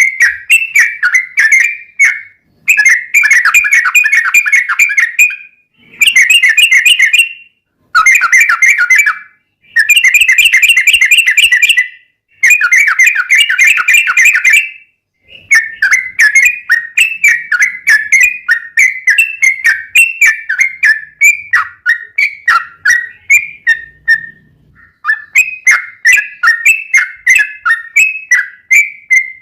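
Sooty-headed bulbul (trucukan) singing loud, rapid runs of fast-repeated notes, in phrases of one to three seconds with short pauses between them.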